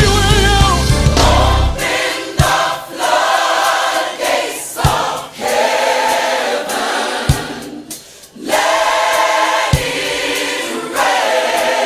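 Gospel choir singing with a band. The heavy bass drops out about two seconds in, leaving the choir's held chords over a single low beat roughly every two and a half seconds.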